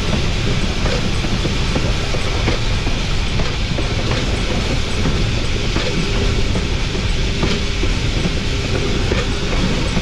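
Wheels of a narrow-gauge steam locomotive's pilot truck rolling on the rails, with a steady heavy rumble and irregular sharp clicks over the track. A faint steady ringing tone comes in about halfway through.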